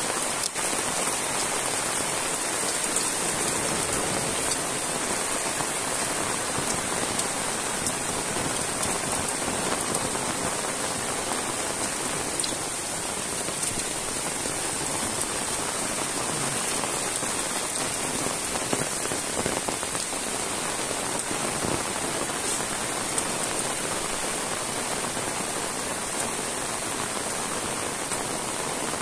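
Heavy rain falling steadily on the ground and puddles, a dense even hiss with scattered close drop hits.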